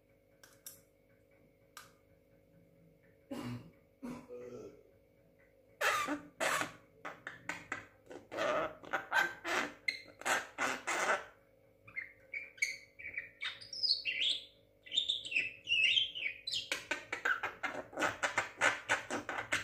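Young Javan myna (jalak kebo) calling: bunches of short harsh chattering notes, a run of rising and falling whistles about two-thirds of the way through, then fast chatter near the end.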